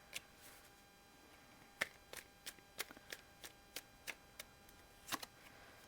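Quiet, uneven run of light taps and clicks, about three a second, from cards being handled on a table, over a faint steady hum.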